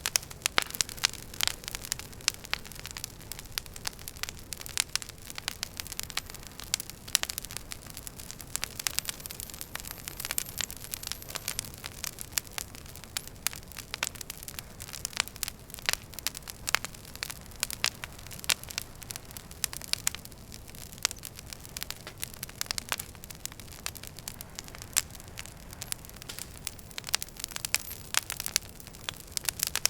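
Wood fire burning in a fireplace: constant irregular crackling and popping of burning logs over a soft steady rush of flame.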